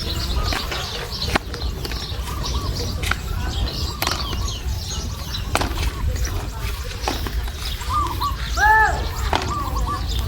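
Birds chirping outdoors: many short, arched chirps throughout, with a louder call near the end. Under them runs a steady low rumble, with a few sharp clicks.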